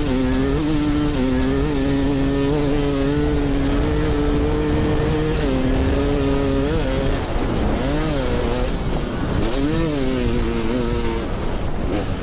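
Enduro dirt bike engine held at high revs while pushing through deep sand, heard from a camera mounted on the bike. After about seven seconds the revs swing up and down several times in quick succession, then drop near the end.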